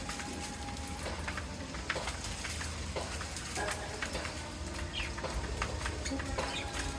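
Parrots in an aviary giving short chirps and squeaks among many scattered sharp clicks and taps, over a steady low hum.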